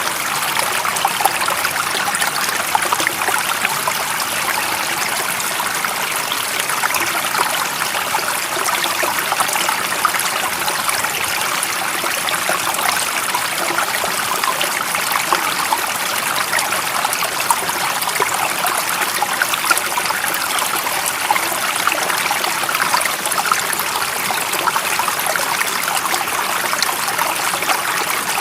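Water running in a stream, a steady trickling and splashing rush that does not change.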